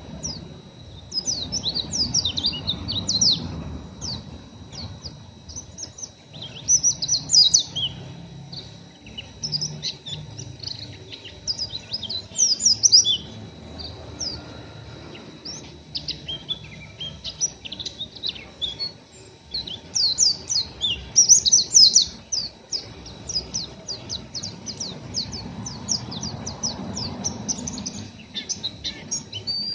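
Pleci (white-eye) twittering in rapid strings of short, high chirps, in bursts that swell and fade every few seconds. It is the coarse 'ngeriwik' twitter of a still-untrained bird.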